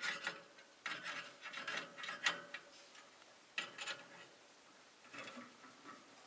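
Rosy-faced lovebirds in their cage making scratchy, rasping chatter in four short bursts, the loudest a little over two seconds in.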